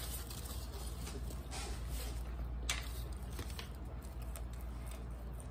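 Faint chewing and mouth sounds from people eating, with a few soft short clicks, over a steady low hum.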